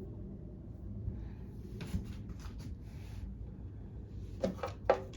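Light clicks and knocks of small mower engine parts being handled and fitted during carburettor reassembly, with two sharper knocks near the end.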